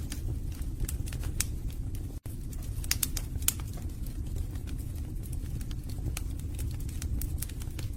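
Wood fire burning in a fireplace: a steady low rumble of flames with irregular sharp crackles and pops from the logs. The sound cuts out for an instant about two seconds in.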